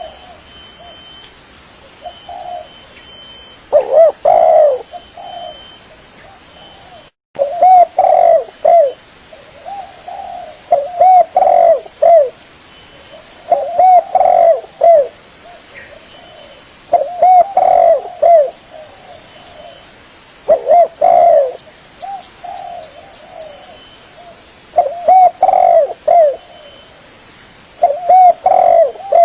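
Spotted dove (tekukur) cooing: loud phrases of several coos, repeated about every two to three seconds, with a short break in the sound just after seven seconds in.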